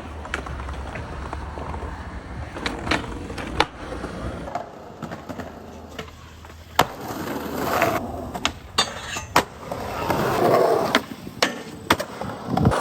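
Skateboards in action: wheels rolling with a steady rumble that swells at times, and about a dozen sharp cracks of board pops, truck and deck impacts and landings.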